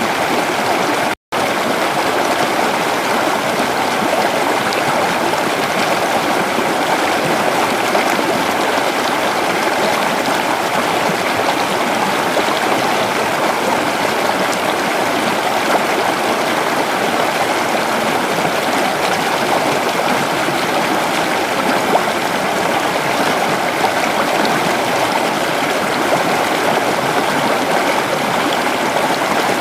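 Creek water running steadily over stones, a dense even rush and babble. The sound cuts out completely for an instant about a second in.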